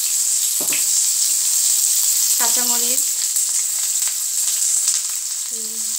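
Sliced onions, and then green chillies, sizzling steadily in hot oil in a non-stick frying pan.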